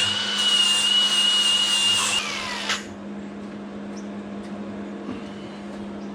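Angle grinder with a flap disc grinding steel to bare metal, a steady high whine over dense hiss; about two seconds in it is switched off and spins down, its pitch falling. A steady low hum carries on underneath.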